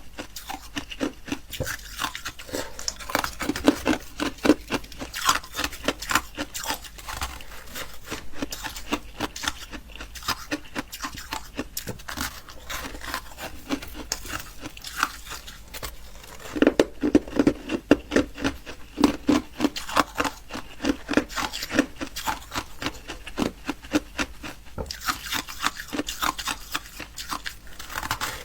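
Close-miked crunching and chewing of ice, with rapid crisp cracks coming in bursts. The crunching is heavier about three seconds in, again past the middle, and near the end.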